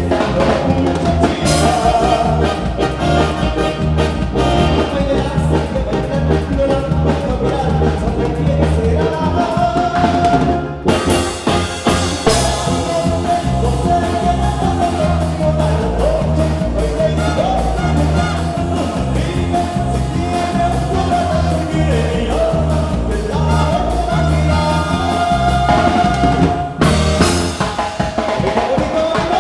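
Band music: drum kit and bass keep a steady beat under a melody line, with brief breaks about eleven and twenty-seven seconds in.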